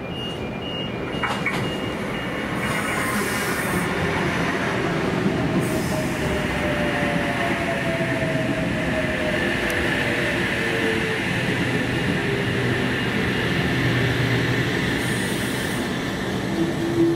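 Electric intercity train pulling into the platform and braking to a stop: steady rumble of wheels on the rails, with a faint whine that falls in pitch as it slows. A steady low hum starts just before the end.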